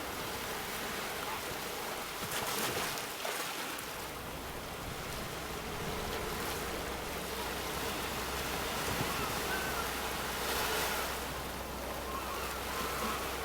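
Sea waves breaking on the shore: a steady wash of surf that swells louder twice, about two seconds in and again around ten seconds in.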